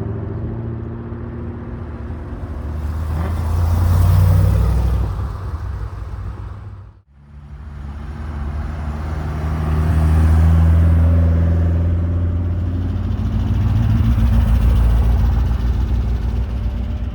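Car engines and exhausts running with a low, steady note as cars drive slowly past, swelling as each one comes close. The sound drops out abruptly about seven seconds in, then another car passes.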